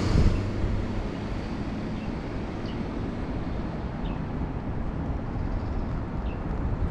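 Steady low rumble of wind and road noise on a motorcycle rider's helmet camera, with no clear engine note, and a few faint short high chirps.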